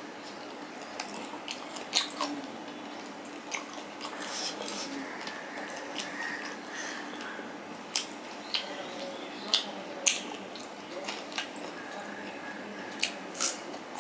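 A person chewing a mouthful of rice and fried hilsa fish close to the microphone: irregular sharp wet smacks and clicks, a few louder ones about two seconds in and near the end.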